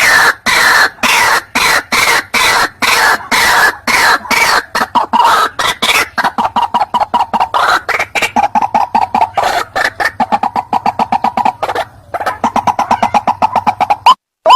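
White-breasted waterhen (ruak-ruak) calling: a loud, unbroken run of short, harsh repeated notes, several a second. The notes come faster in the second half and break off briefly near the end.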